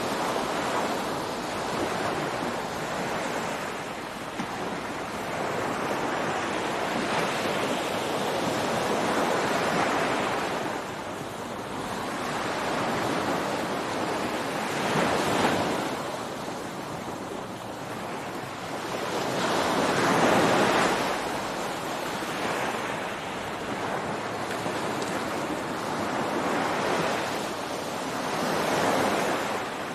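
Ocean surf breaking on a beach, a continuous wash of water that swells and ebbs as waves come in every several seconds, the loudest about two-thirds of the way through.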